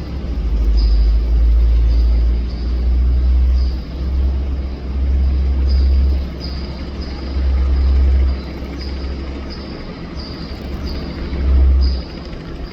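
Helicopter rumbling, a deep low sound that swells and fades every second or two, with a faint high chirp repeating about once or twice a second.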